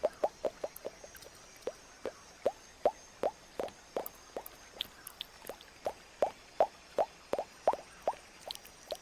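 Close-miked mouth pops, one after another at an uneven pace of about two or three a second, each a short wet pop that rises in pitch.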